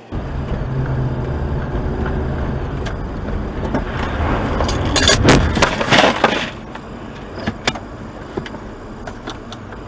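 Road and engine noise of a car, then a cluster of loud sharp bangs about five to six seconds in, followed by quieter running noise with a few scattered clicks.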